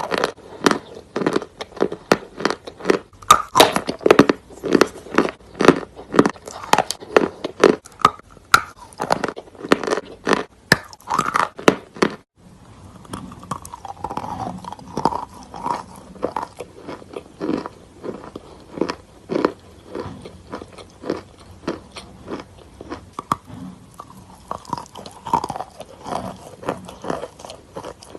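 Chalk being bitten and crunched close to the microphone, with sharp loud cracks about twice a second. About twelve seconds in it turns to softer, quicker chewing and crackling.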